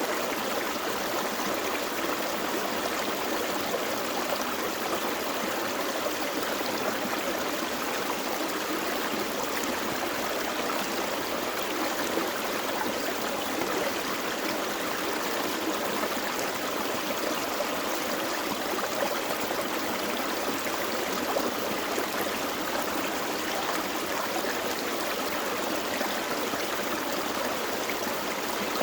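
Forest creek flowing over rocks: a steady, even rush of running water with a bubbling edge, unchanging throughout.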